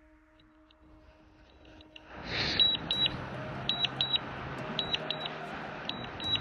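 Drone controller warning beeps, short high double beeps repeating about once a second, starting about two seconds in over a steady rush of noise and a low hum. Typical of a DJI flight warning such as a low-battery or return-to-home alert.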